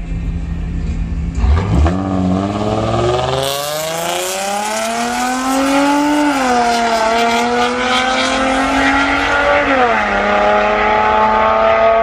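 A vehicle's engine accelerating hard through the gears. After a low rumble it pulls away about two seconds in, its pitch climbing, then dropping at upshifts around six and ten seconds in before climbing again.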